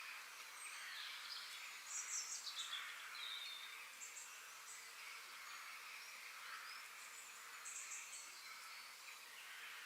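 Forest ambience: birds chirping and calling over a steady background hiss. A flurry of high chirps with a falling call comes about two seconds in, and short high trills recur every few seconds.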